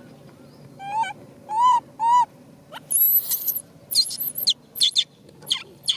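Young macaque crying: three short whimpering calls about a second apart, then a shrill squeal and a run of short, high squeaks.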